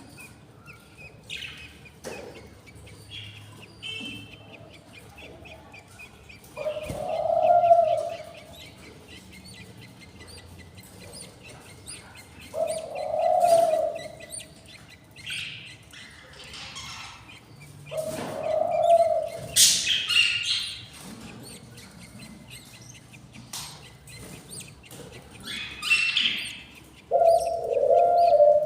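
Budgerigars chirping and chattering in short high calls, one stretch a fast run of ticks. A lower, cooing call of about a second repeats four times, roughly every five or six seconds.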